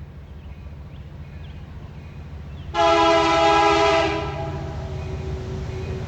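Freight train locomotive approaching with a low rumble that grows louder, then its air horn sounds one loud chord of several tones about three seconds in, held for about a second and a half before fading.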